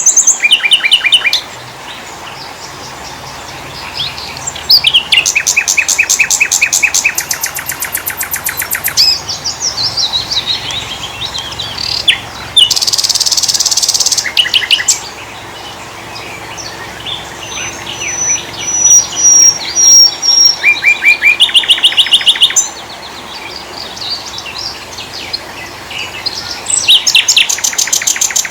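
Several small songbirds singing in turn: fast trills of rapidly repeated high notes, scattered chirps, a thin high whistle, and a short harsh buzz about halfway through.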